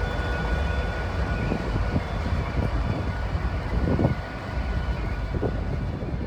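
Freight train running by: a steady low rumble of wheels on rail, with a faint steady high tone that fades out about halfway through.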